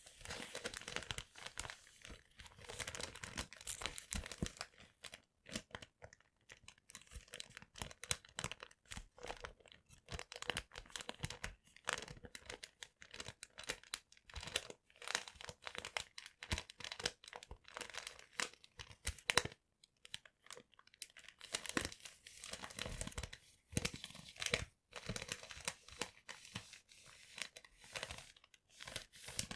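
Paper being handled, crumpled and torn: dense, irregular crackling and ripping with a few brief pauses.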